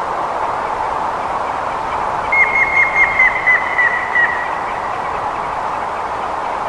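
Grey-headed woodpecker giving its song, a run of about ten short whistled notes that slow down and fall slightly in pitch, about two seconds in. It sounds over a steady rushing background noise.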